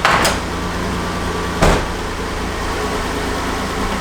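Toyota MR2's swapped-in V6 engine idling steadily, with two short sharp sounds, one just after the start and one about a second and a half in. The engine has an exhaust leak at a header gasket where the headers meet the Y-pipe.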